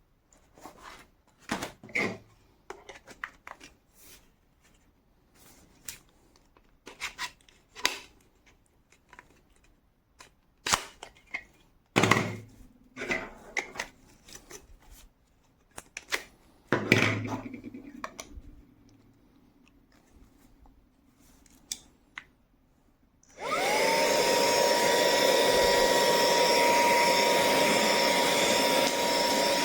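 A series of scattered clicks and knocks from the unit being handled, then about 23 seconds in the Minthouz cordless handheld vacuum cleaner switches on: its motor quickly rises to a steady high whine over a loud rush of air.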